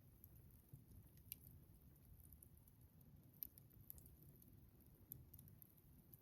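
Faint crackling of a wood campfire: scattered sharp pops and ticks over a low, soft rumble of the flames.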